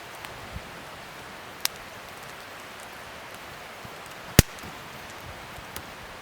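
Wood fire burning with a steady hiss and scattered crackles; a sharp pop a little before two seconds in and a louder one past four seconds.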